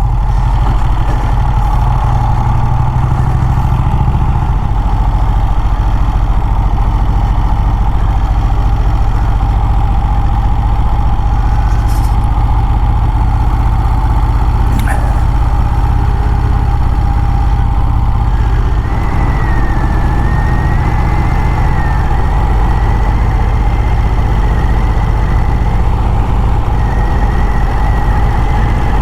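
Vincent Rapide motorcycle's 998 cc V-twin engine running steadily under way, with a couple of faint clicks about halfway through.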